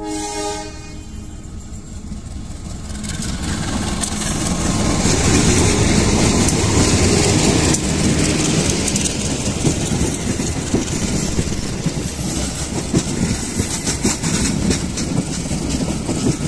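Bandung Raya commuter train, a diesel locomotive hauling passenger coaches, passing close by. The rumble builds over the first few seconds to its loudest as the train draws level, then the coaches roll past with the wheels clacking over the rail joints.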